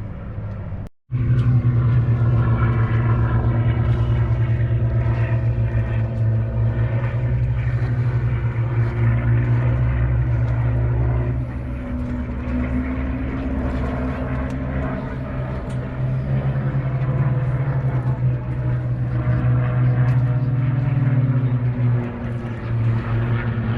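Propeller aircraft engine droning steadily overhead, its pitch slowly rising and falling as the aircraft moves.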